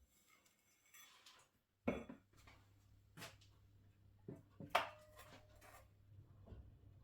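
Household objects being handled: a few scattered knocks and clinks, the loudest about five seconds in with a brief ringing tone, over a low steady hum that starts about two seconds in.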